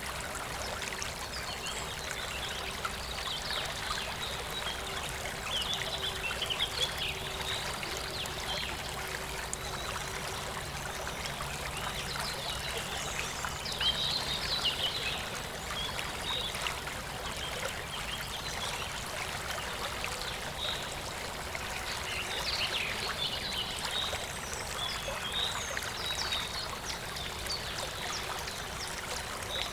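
Clear, shallow stream trickling and babbling steadily over stones, with small splashes flickering through the flow.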